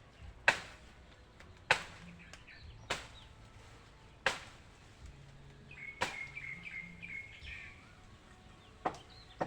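Sharp blows of a tool struck over and over while an old chicken coop is knocked down, one every second or so, then a pause and two more near the end. A bird chirps briefly in the middle.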